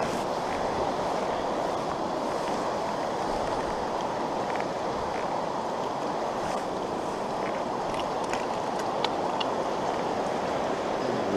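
Steady rush of stream water flowing over rocks, with a few faint scattered ticks.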